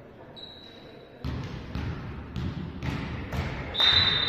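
A volleyball bouncing on a gym floor about twice a second, six times, then a referee's whistle blown loud and held near the end; a brief faint whistle sounds about half a second in.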